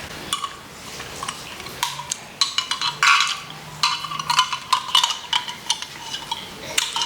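Irregular series of light clicks, taps and scrapes of utensils and takeaway food containers being handled while eating.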